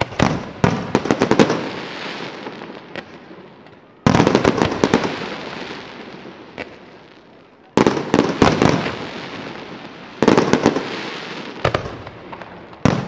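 Aerial fireworks bursting in salvos: sudden loud bangs and rapid crackles, each fading away in a long rolling echo. The biggest burst comes about four seconds in, with more salvos near the middle and toward the end.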